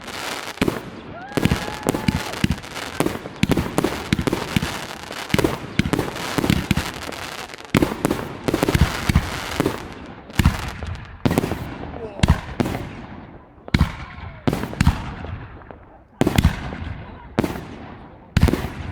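Fireworks going off in rapid succession: dozens of sharp bangs, each trailing off in an echo, with a short lull about sixteen seconds in before a few more bursts.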